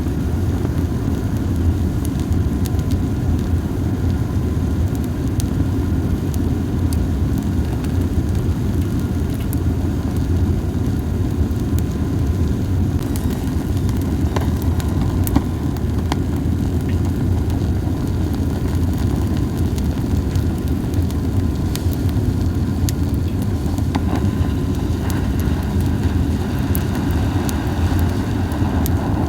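Campfire of dried Japanese cypress (hinoki) cones burning, with scattered, sparse crackles over a steady low rumble.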